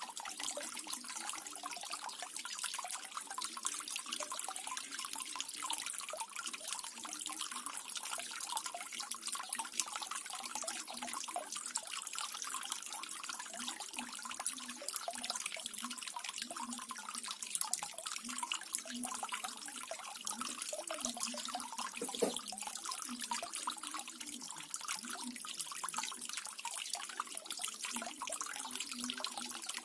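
Small decorative waterfall fountain: water trickling and splashing steadily with a dense patter of small drips.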